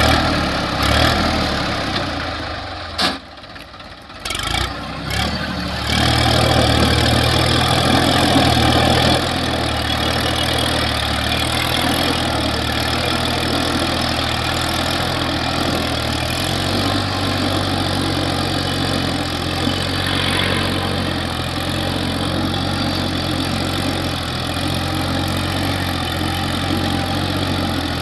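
New Holland tractor's diesel engine running, with a brief drop in sound about three to five seconds in, then a steady, even engine note for the rest.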